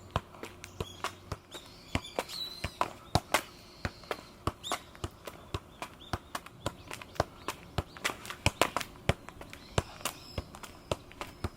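A freestyle football being juggled and kicked: a run of quick, irregular taps and thuds, several a second, from the ball striking feet and legs. Birds chirp briefly a couple of seconds in.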